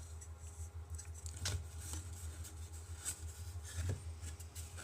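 Faint handling noise: a few light knocks and rubs as a 3D-printed marking tool is handled against a rocket body tube, over a steady low electrical hum.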